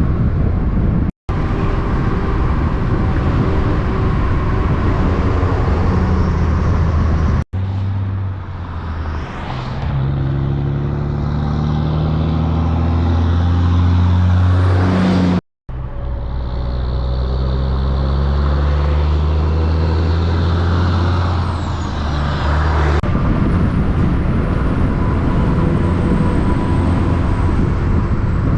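Heavy diesel semi-truck engines pulling, in several short clips cut together. The engine note climbs in pitch twice, in the middle of the clip.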